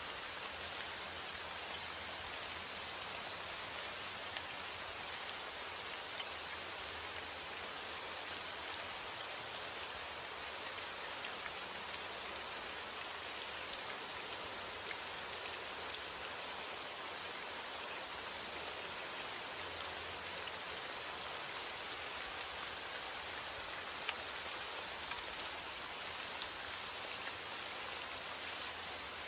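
Steady heavy rain falling, a constant hiss with scattered individual drop ticks.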